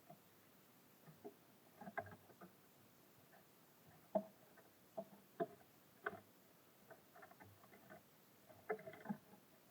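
Light, irregular taps and knocks at a bird feeder, the sound of small birds landing, hopping and pecking at seed, with a sharper knock about four seconds in.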